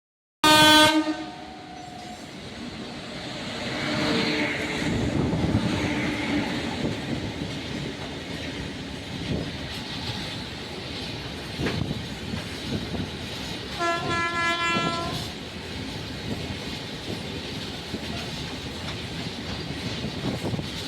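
Long loaded BOXNHL freight train hauled by twin EF12K electric locomotives passing through: wheels rumbling and clacking over rail joints. A short locomotive horn blast sounds right at the start and another of just over a second about fourteen seconds in.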